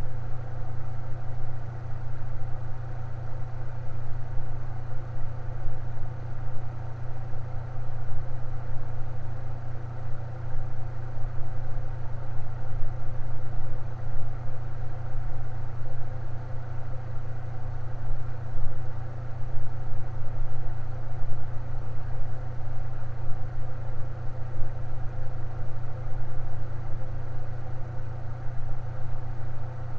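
Electric fan running steadily, a constant low hum with a soft whir of moving air above it.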